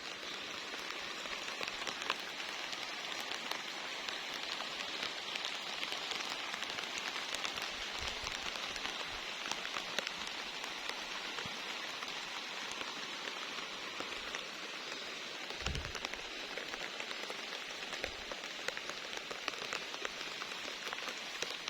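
Steady rain falling on garden plants and ground, a continuous hiss dotted with the ticks of individual drops.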